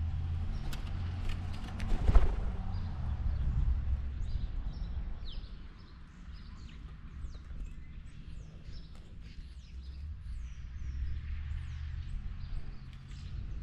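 Small birds chirping, many short high notes, mostly in the second half, over a low outdoor rumble. A single sharp knock about two seconds in is the loudest sound.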